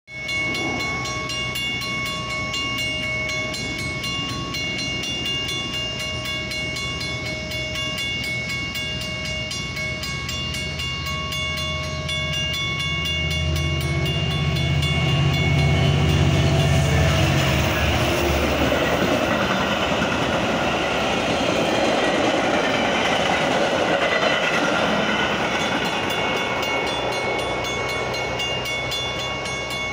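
Grade-crossing warning bells ring steadily as a Metra commuter train approaches and passes. A deep diesel locomotive rumble builds and peaks about two-thirds of the way through, then the train's rolling rail noise takes over and fades slowly toward the end.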